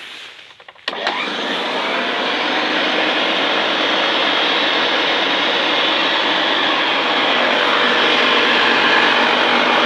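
Hoover Senior 652 upright vacuum cleaner switched on about a second in. Its motor spins up with a rising whine, then runs steadily.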